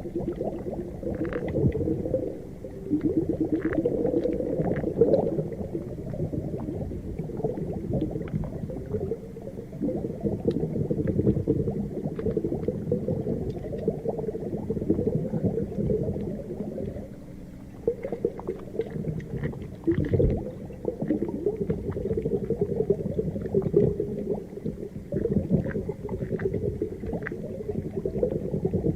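Underwater ambience: a continuous muffled, bubbling and gurgling rumble, rising and falling in level, with scattered small pops.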